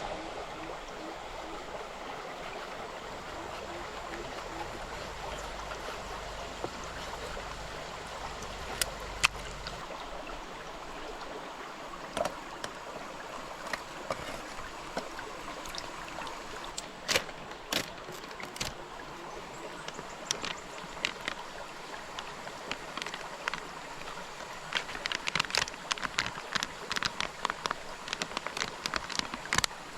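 Stream water flowing steadily, with scattered sharp clicks and knocks that come thick and fast over the last few seconds.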